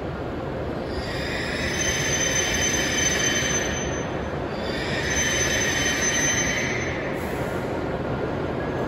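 W7 series Shinkansen train braking to a stop alongside the platform: a steady rumble with two spells of high-pitched squeal from its brakes and wheels. The first comes about a second in, the second about five seconds in, and the squeal dies away as the train halts.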